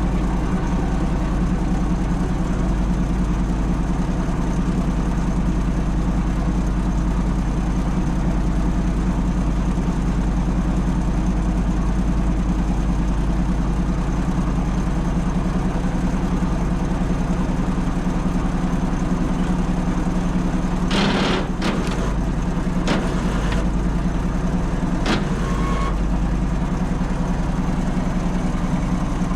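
An engine running steadily at idle, with a constant low hum. A few sharp knocks come between about 21 and 25 seconds in.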